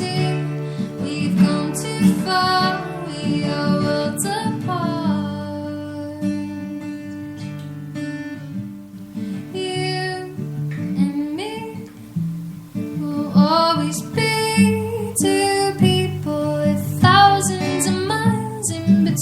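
Acoustic guitar strummed and plucked under a woman's sung melody: a live song performance.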